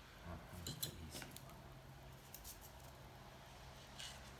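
Faint scattered clicks and light handling noises of small parts being placed by hand, over a low steady hum.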